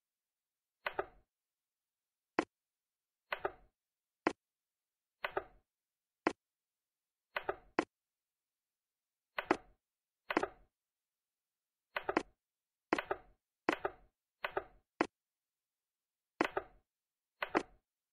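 A series of about seventeen short, sharp knocks at an uneven pace, some coming in quick pairs, with dead silence between them.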